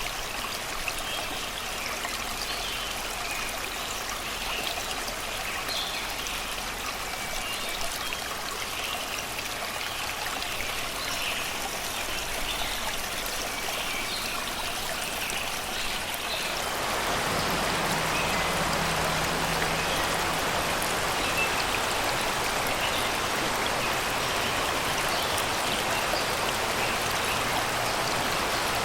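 Shallow river water flowing and babbling over rocks, with birds chirping in the background. A little over halfway through, the water abruptly becomes louder and fuller.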